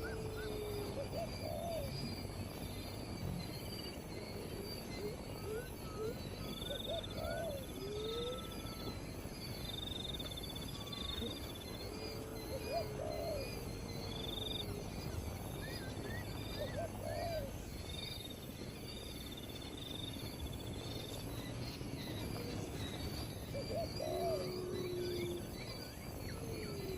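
Several wild birds calling: a short low call that bends in pitch recurs every few seconds, over higher whistled trills and chirps and a steady background hiss.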